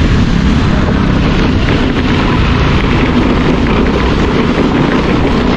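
Motorcycle riding with loud, steady wind noise buffeting a GoPro's built-in microphone, the engine and road noise blurred into a constant rumble.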